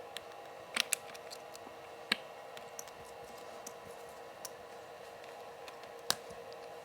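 Scattered sharp clicks and small snaps of cracked iPad touchscreen glass being pried off its adhesive, the loudest about a second in, about two seconds in and near the end, over a steady faint hum.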